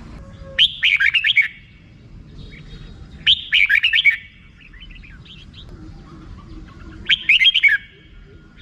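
Red-whiskered bulbul giving its fast 'rik' chatter: three short bursts of rapid notes, each under a second, a few seconds apart.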